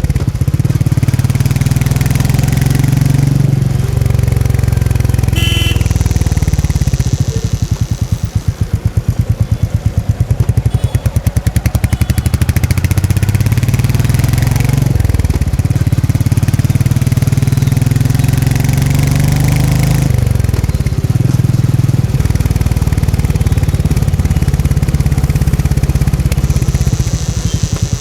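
Royal Enfield Meteor 350's single-cylinder engine and exhaust under way, its speed rising and falling with the throttle. Between about eight and thirteen seconds in it drops to slow, separate exhaust thumps before picking up again.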